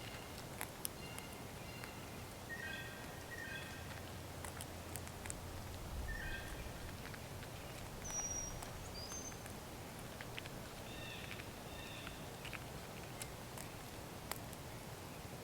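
Outdoor woodland ambience: wild birds giving short chirping calls in small clusters, with a brief high whistle about halfway through, over scattered sharp ticks and clicks and a faint steady hiss.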